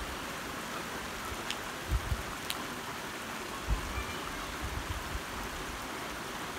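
Steady hiss of light rain falling, with a few low bumps about two and four seconds in.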